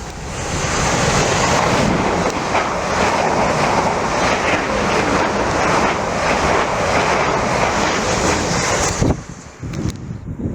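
Train passing close by at speed: a loud, even rushing noise that builds in the first second and cuts off abruptly about nine seconds in.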